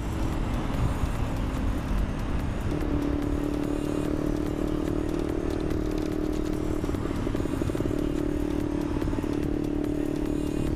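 Yamaha LC135's single-cylinder four-stroke engine running at a steady cruising speed, its hum holding steady from about three seconds in, under continuous wind rumble on the rider's microphone.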